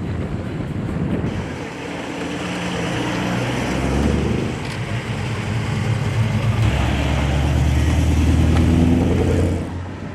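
Car engine running loudly with its pitch rising and falling as it revs and drives. The sound drops away sharply near the end.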